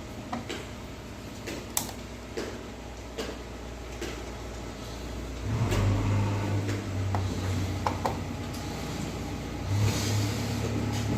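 A few light clicks, then a small electric screwdriver's motor whirring in two runs, about five seconds in and again near the end, backing out the screws of an LED TV's rear cover.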